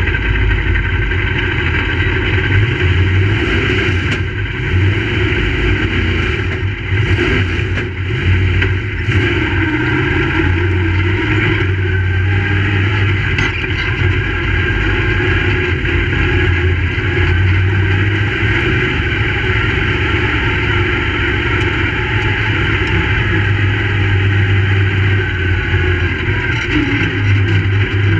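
Crate late model race car's V8 engine running steadily, with a few brief dips in loudness in the first third.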